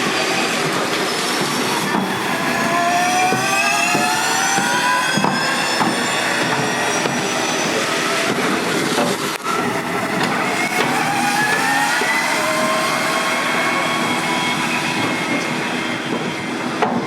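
Formula E electric race cars' drivetrains whining, the pitch rising as they accelerate, twice: a few seconds in and again about ten seconds in, over steady road and tyre noise.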